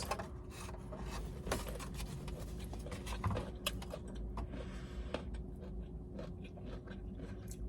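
Quiet eating: chewing, with scattered small clicks and scrapes of a utensil in a takeout container of vegetables, over a faint steady hum.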